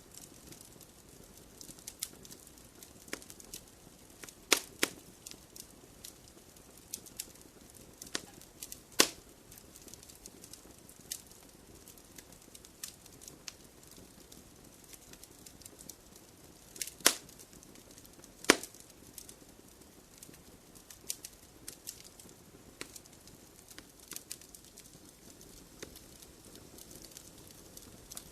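Wood fire crackling in a fireplace: irregular sharp pops and snaps over a faint steady hiss, with a handful of louder snaps, two of them a second or so apart past the middle.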